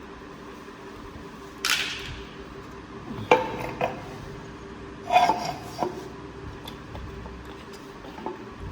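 Metal objects clinking and clanking: a few separate knocks with a brief ring, following a short hiss near the start, over a faint steady hum.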